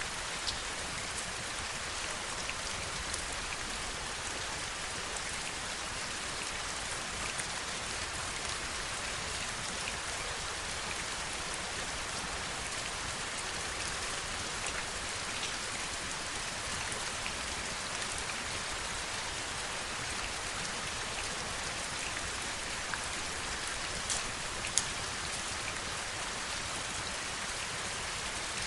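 Heavy rain falling steadily, an even hiss of rain with scattered sharper drop clicks, the sharpest near the end.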